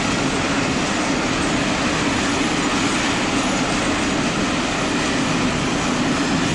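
A train running, a steady noise with a low hum.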